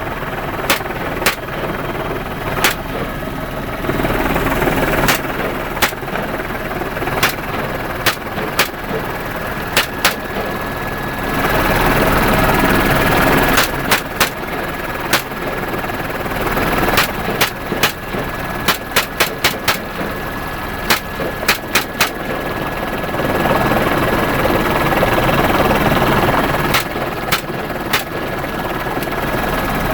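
Semi-automatic .223 rifle fired from a helicopter, single shots and quick strings of several, over the steady noise of the helicopter's engine and rotor.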